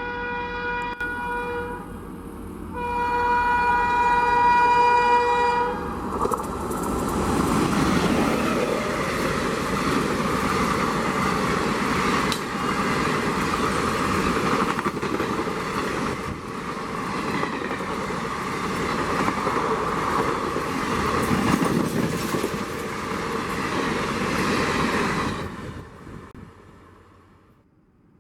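An express train's locomotive horn sounding twice, the second blast longer and louder, then the train rushing through at speed with a loud wheel and coach roar for about twenty seconds before it fades away quickly.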